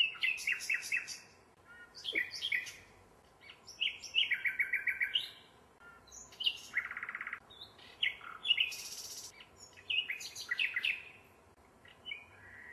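Birds singing: short phrases of chirps and quick trills come every second or two, with a buzzier trill a little past the middle.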